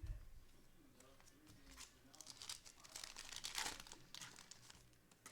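A foil or plastic trading-card pack wrapper being torn open and crinkled, with the crackling loudest about three and a half seconds in.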